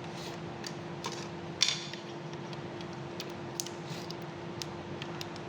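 Light clicks and taps of small tools and parts being handled at a workbench, the sharpest about a second and a half in, over a steady hum.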